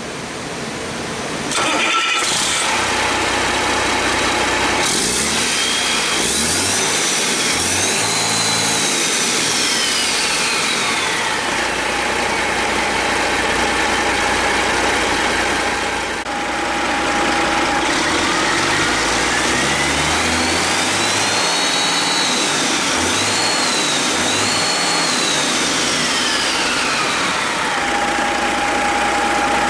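1998 Detroit Diesel Series 60 12.7 L inline-six diesel starting up about two seconds in, then running at idle with a steady whine. It is revved up and back down twice, the second time with two peaks before settling back to idle.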